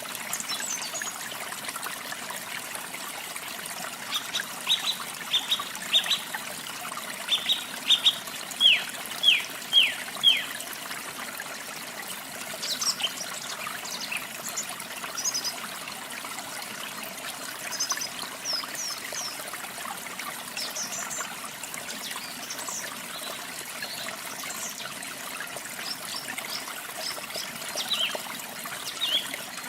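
Steady rush of falling water with songbirds singing over it: a run of loud down-slurred whistles, about two a second, from about four to ten seconds in, then scattered high chirps.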